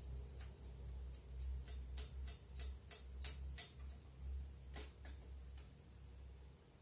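Hand ratchet wrench clicking in short, uneven runs, the clicks stopping about five and a half seconds in, over a low rumble.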